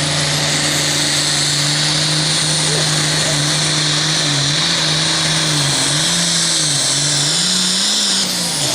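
Super farm class pulling tractor's turbocharged diesel engine running flat out under load, with a strong hiss over it. Its pitch holds steady at first, then surges up and down several times from about halfway through.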